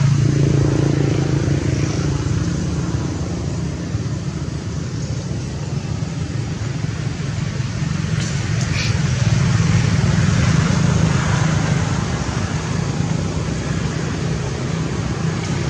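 Road traffic: a motor vehicle engine running with a steady low hum, over a background of traffic noise.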